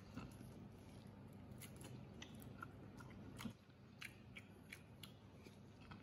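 Faint biting and chewing of smoked pig large intestine: scattered small mouth clicks and smacks, with one slightly louder bite about three and a half seconds in.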